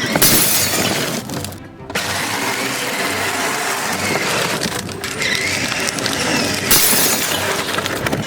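Something being smashed, with a loud shattering crash at the start and another near the end, over background music.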